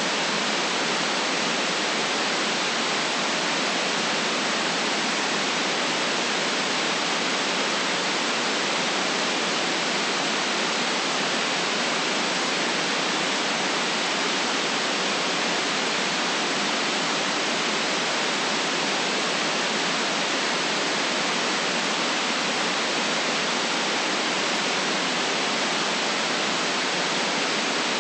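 Steady synthetic white noise: an even, unchanging hiss with no deep bass.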